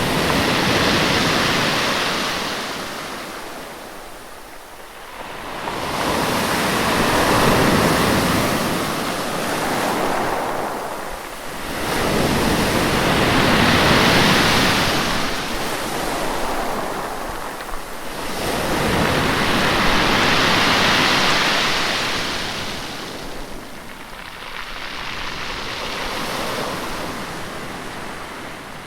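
Sea waves breaking and washing up the shore in a slow rhythm, one surge about every six seconds, five in all, each swelling up and then fading away.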